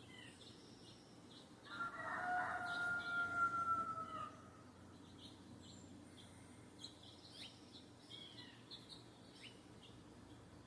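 A rooster crowing once, a long call of about two and a half seconds that drops in pitch at the end, with small birds chirping throughout.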